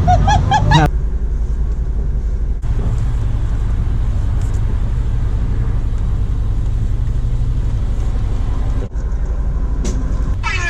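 Car engine idling with a steady low rumble, briefly dropping out twice.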